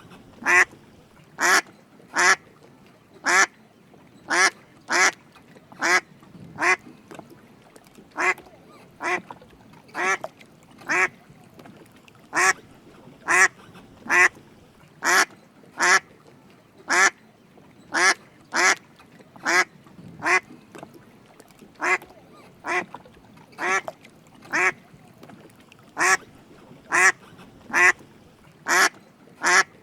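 Drake mallard quacking: a long series of short single quacks, about one a second, some coming in quick pairs.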